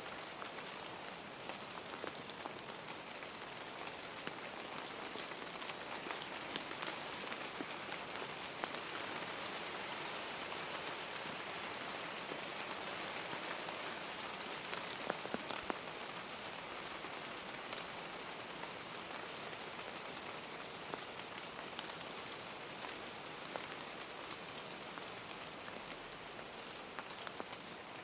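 Steady rain, with scattered individual drops ticking on a surface, swelling slightly around the middle.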